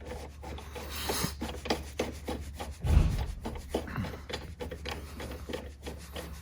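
Irregular rubbing and scraping of parts being handled and fitted on an electric ATV's handlebar assembly, with scattered small clicks and one dull low thump about three seconds in.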